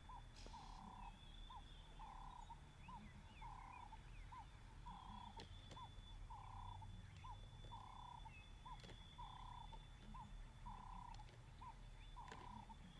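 Faint African bush ambience: an animal's two-part call, a longer note then a short rising one, repeated regularly about every second and a half, over a steady thin high trill and a low background rumble.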